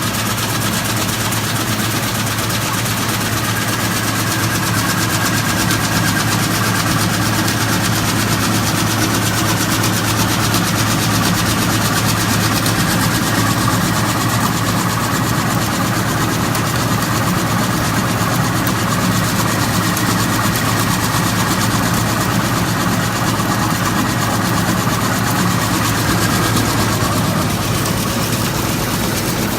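A machine running steadily, with a loud even hum and a constant rushing noise that does not change.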